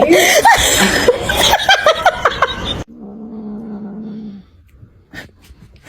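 Cat meowing and yowling over and over in loud, arching cries, with some laughter mixed in. It cuts off abruptly about three seconds in, and a quieter steady low drone and a few faint clicks follow.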